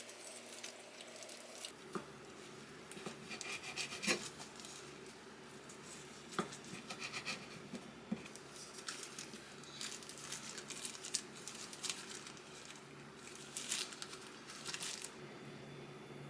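Small objects being handled: rubbing and rustling with scattered light clicks and taps.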